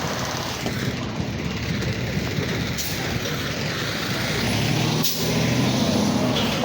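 Garbage truck engine running close by, its engine note getting louder in the last couple of seconds, with one sharp knock about five seconds in.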